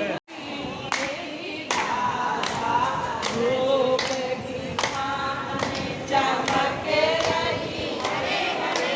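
A group of voices singing a devotional hymn together, kept in time by a sharp beat struck about every three-quarters of a second. The sound drops out for a moment just after the start before the singing comes in.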